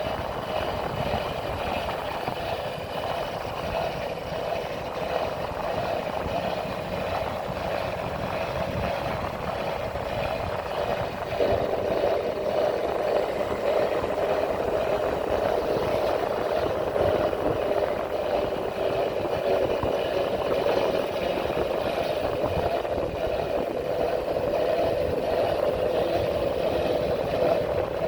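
A motorcycle engine running steadily on the move, with wind and road noise. About eleven seconds in it grows louder and its pitch shifts, as with more throttle or a gear change.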